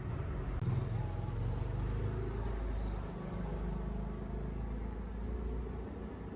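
A car driving past on a street: a low engine and tyre rumble that swells within the first second and fades near the end.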